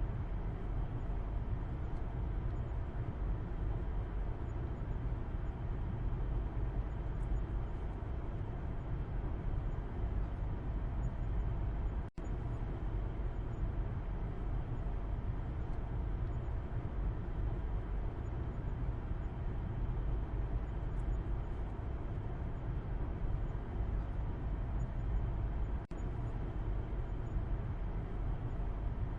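Steady low rumble of a car's engine and road noise, heard from inside the cabin while driving. The sound cuts out for a split second twice, about 12 and 26 seconds in.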